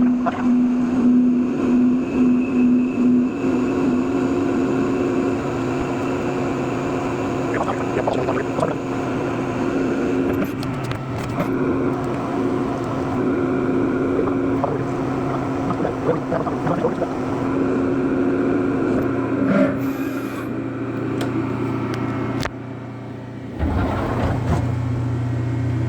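A machine-shop machine tool running steadily: a motor hum with cutting and scraping noises on top as the stainless steel knob is machined. Near the end the sound drops out briefly, then returns with a deeper hum.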